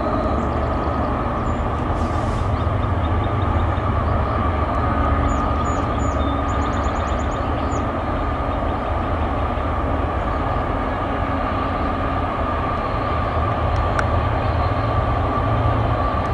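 Train passing: a steady rumble of wheels on rail with a steady high tone running above it.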